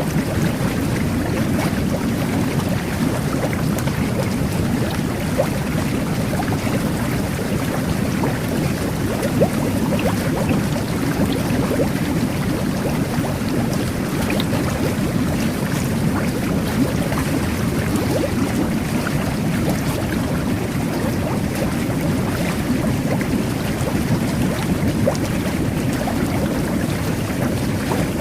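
Jet bath (whirlpool tub) churning its water: a steady, dense bubbling and rushing, mostly low, with small pops and gurgles throughout.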